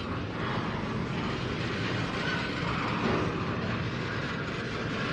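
Double-stack intermodal freight cars rolling past steadily on the rails.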